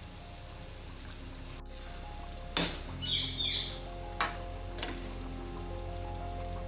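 Beef Manchurian sauce sizzling and bubbling in a pan while a metal spoon stirs in capsicum and tomato, knocking against the pan a few times and scraping once, over soft background music.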